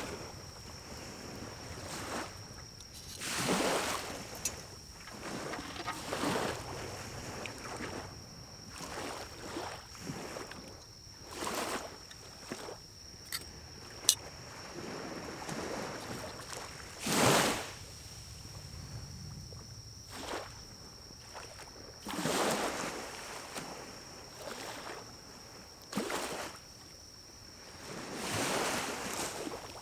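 Pine cones burning in a small wood-burning stove: an irregular fire noise of soft rushing swells and scattered crackles, with one sharp pop about fourteen seconds in.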